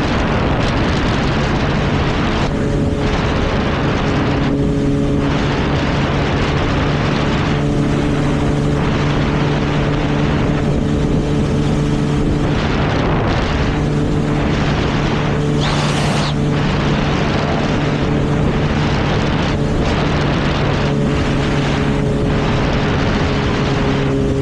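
Motorcycle cruising at a steady speed, its engine holding an even pitch under heavy wind rush on the microphone.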